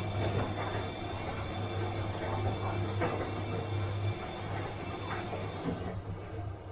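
Bosch washing machine running mid-cycle: a steady low motor hum with irregular swishes from the turning drum. The hum eases slightly about four seconds in, and the higher sounds fade near the end.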